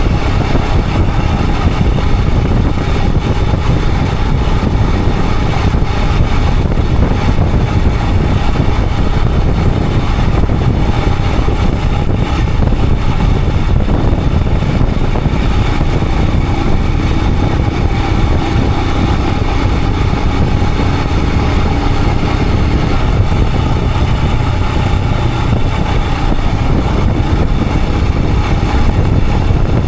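Royal Enfield Himalayan 411's single-cylinder engine running steadily while the motorcycle is ridden, with heavy wind noise on the camera's microphone.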